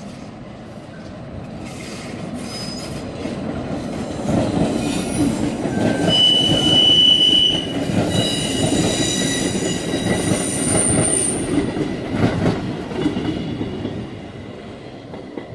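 Red Rhaetian Railway electric train running past close by, its rumble building to a peak midway and then fading. High-pitched wheel squeal sets in about six seconds in and lasts several seconds.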